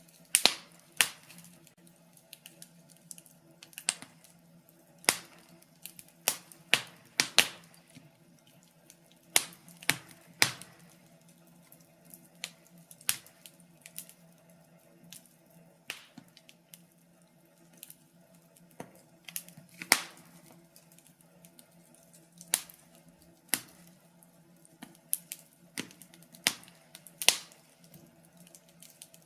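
Wood fire crackling, with sharp pops at irregular intervals, some much louder than others, over a faint steady low hum.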